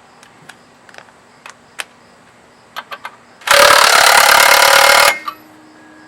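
Impact wrench hammering for about a second and a half, then cutting off, as it runs in the bolt of a CVT belt removal tool to spread the secondary clutch sheaves. Before it, a few light clicks of tools and socket being handled.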